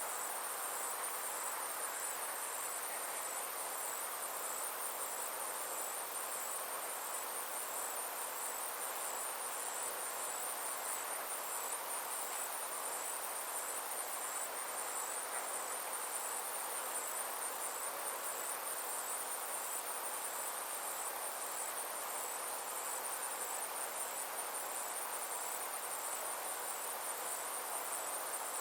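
A chorus of summer insects, a steady high-pitched trill pulsing evenly without a break, over a constant background hiss.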